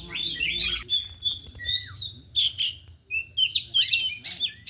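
Oriental magpie-robins singing a fast, varied run of clear whistles, chirps and short down-slurred notes, phrases tumbling one after another with no pause.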